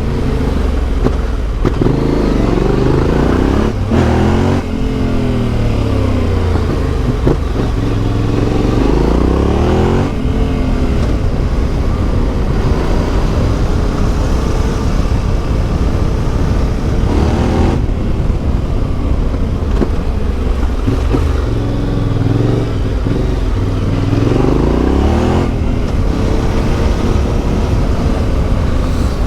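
Yamaha Ténéré 700's CP2 parallel-twin engine through an Akrapovic exhaust, under way, its pitch climbing and dropping repeatedly as the rider accelerates, shifts gear and slows.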